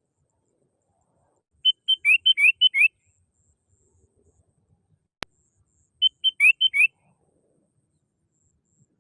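Sooty-headed bulbul (kutilang) singing: two short phrases of quick whistled notes, each about a second long and some four seconds apart, with a single sharp click between them.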